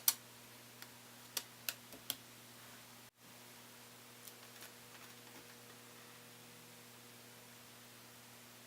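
A few light clicks and taps in the first two seconds, from small tools and laptop parts being handled during reassembly, over a faint steady electrical hum; a couple of softer ticks follow near the middle.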